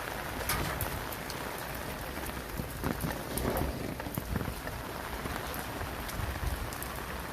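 Steady rain falling, with scattered sharp drips and drops hitting nearby surfaces.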